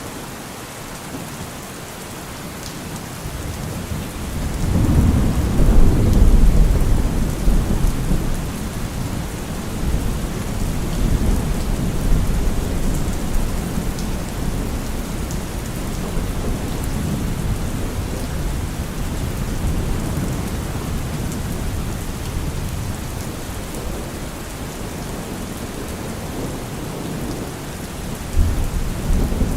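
Heavy rain drumming steadily on a car roof while thunder rolls. A deep rumble swells about four seconds in, peaks soon after and rolls on, slowly fading, and another low surge of thunder comes near the end.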